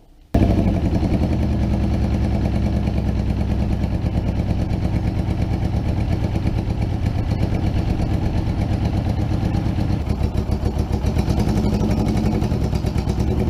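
Suzuki GS550 inline-four motorcycle engine running at a steady speed, with a brief dip about ten seconds in. The bike has been losing power and has acceleration problems, later traced to electrical faults.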